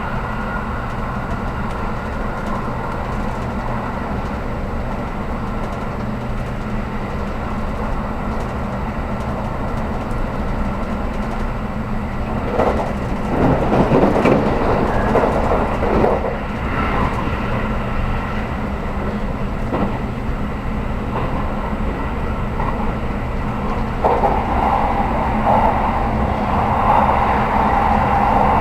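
Inside a JR Kyushu 783-series express train car: a steady low hum from the train. A louder rumbling swell comes about halfway through, and the noise rises again near the end.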